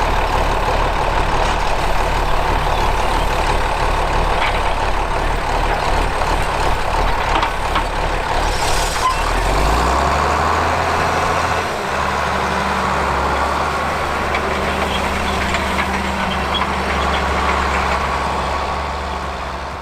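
Large tractor's diesel engine running steadily. Its low note shifts about halfway through.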